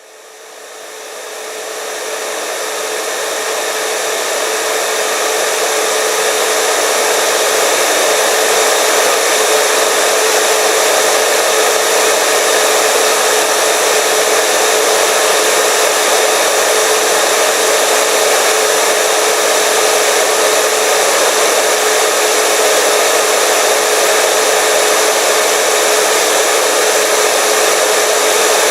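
Hair dryer running: a steady rush of blown air with a steady motor whine in it, rising from silence over the first few seconds and then holding steady.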